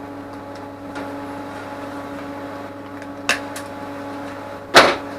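Steady electrical hum of a running workshop machine, with a light click about three seconds in and a sharp knock near the end.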